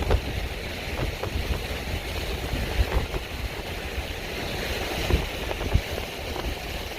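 Snowstorm wind buffeting the microphone: an uneven low rumble with a few faint knocks.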